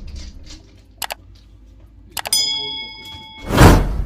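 Small metallic clicks, then a piece of metal struck and ringing for about a second with a bell-like tone. Near the end comes a loud, heavy thud.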